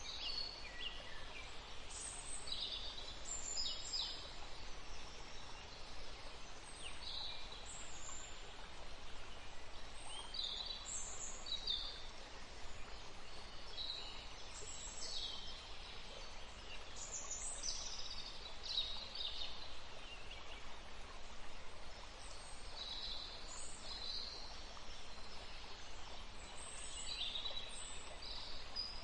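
Several forest birds chirping and calling, short high notes and quick falling calls coming every second or so, over steady faint background noise.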